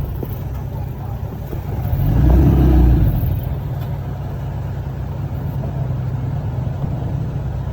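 Heavy diesel earthmoving machinery running with a steady low rumble that swells louder for about a second, two to three seconds in, then settles back.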